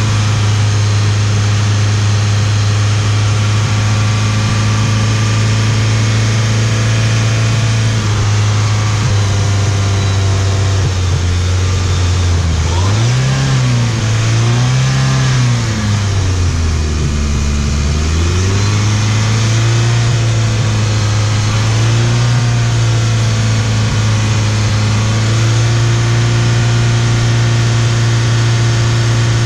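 2013 Hyundai Sonata 2.0T's turbocharged direct-injection four-cylinder engine idling while intake valve cleaner is sprayed into its air intake. About halfway through, the engine speed rises briefly twice, then sags below idle for a couple of seconds before settling back to a steady idle.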